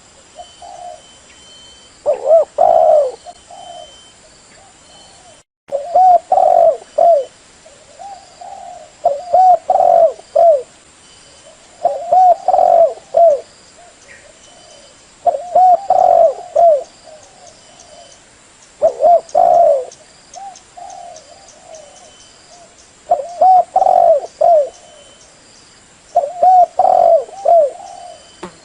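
Spotted dove cooing: short phrases of a few low coos, repeated every three to four seconds. This is a decoy dove's call, used to lure wild doves to a trap.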